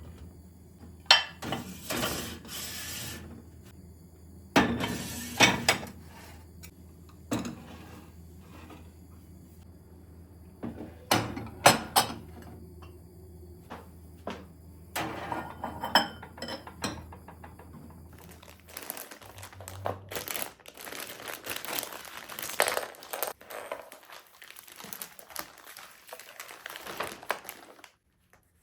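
Dishes and cutlery being handled: a string of separate clinks and knocks of crockery and glass being set down. A steady low hum stops about two-thirds of the way through, and near the end the sound turns to a denser rustling clatter.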